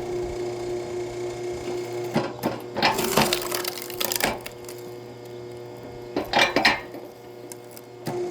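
Camping axe chopping and splitting firewood: a few sharp strikes with the wood cracking and splintering, in two clusters about three seconds apart.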